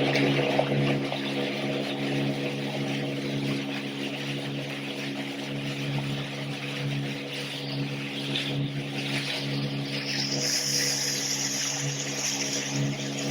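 Speedboat engine running at a steady drone, with water and wind rushing past the hull.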